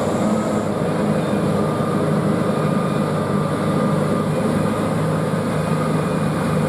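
A heavy vehicle's engine running steadily, a continuous rumble with a faint steady whine above it.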